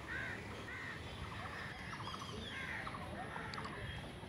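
Birds calling: short arched calls repeating every second or so, with quick runs of chattering notes between them, over a low steady background hum.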